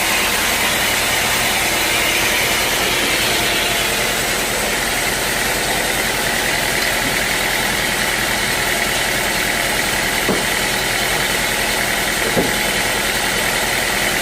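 Sawmill machinery running steadily with a constant mechanical noise, and two light knocks near the end.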